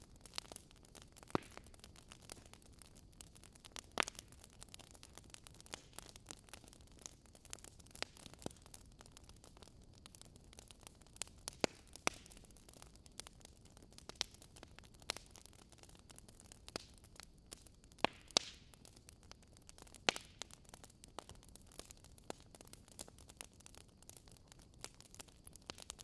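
Wood logs burning in a fireplace: irregular sharp crackles and pops over a faint steady hiss, with a few louder snaps scattered through.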